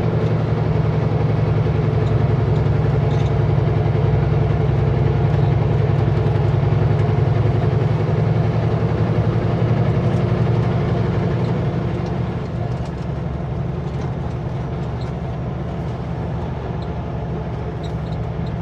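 Kenworth W900L semi truck's diesel engine running steadily, then easing off and getting quieter about twelve seconds in.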